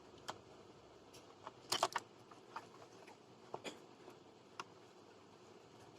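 Scattered light clicks and taps of small parts and tools being handled during a TV repair, with a quick cluster of several clicks about two seconds in, over faint hiss.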